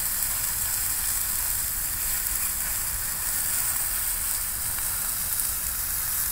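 Steady hiss and sizzle of water from a garden hose spraying onto a burning lawnmower.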